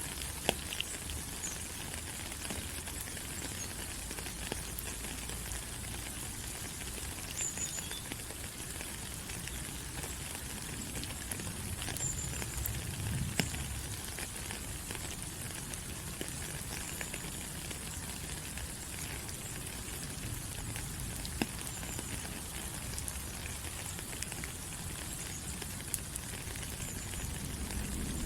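Steady rain falling on rainforest leaves: an even hiss with scattered drip clicks, and a few short high chirps here and there.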